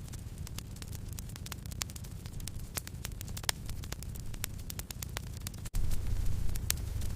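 Wood fire crackling, with frequent sharp pops over a steady low rumble. It cuts out for an instant a little before the end and comes back slightly louder.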